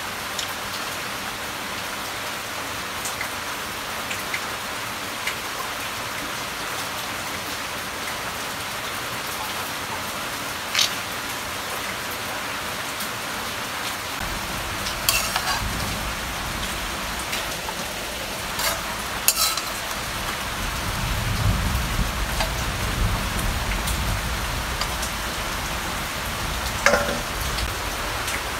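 Steady rain falling on the roof, with a few sharp clinks of a stainless steel plate and utensils. A low rumble comes in about halfway through.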